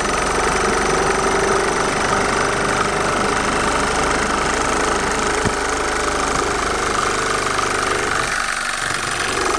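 Small balanced two-cylinder Stirling hot-air engine running steadily, heated by a gas torch turned down low that hisses under the mechanical running noise.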